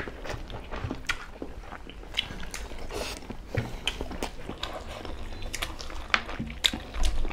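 People eating rice and chicken curry by hand: close-up chewing and mouth noises with irregular small clicks, and fingers mixing rice on the plates.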